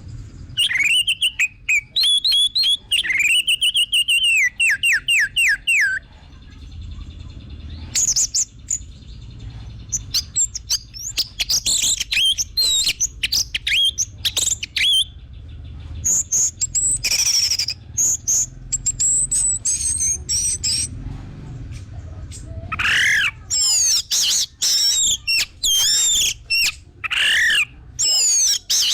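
Orange-headed thrush (anis merah) singing loud, varied whistled phrases broken by short pauses. The song includes a fast run of repeated down-slurred notes early on and a quick string of mixed whistles and chattering notes near the end.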